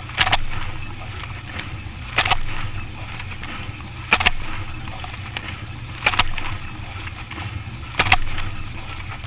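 Dishwasher running: a steady low hum with a short, sharp swish repeating about every two seconds.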